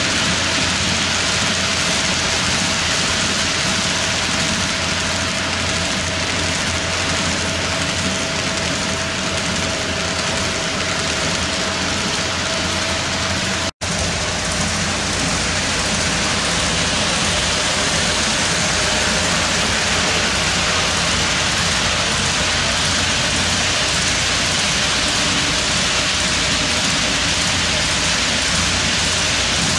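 HO-scale model train running on the layout, a steady rolling hiss from its metal wheels on the rails with a faint steady whine in the first half. The sound breaks off for an instant about fourteen seconds in, then carries on with a deeper rumble.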